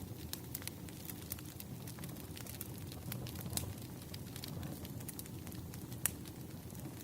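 Wood fire burning, with irregular crackles and pops over a steady low rumble; one sharper pop stands out about six seconds in.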